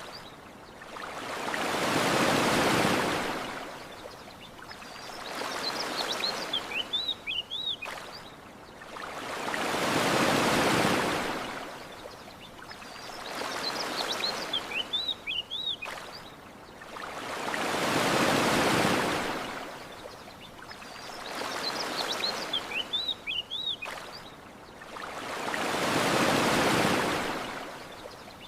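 Ocean waves washing onto a shore in a slow, regular rhythm: a larger wave about every eight seconds with a smaller one between. Short, high bird chirps come in the lull between waves. The whole pattern repeats identically every eight seconds, like a loop.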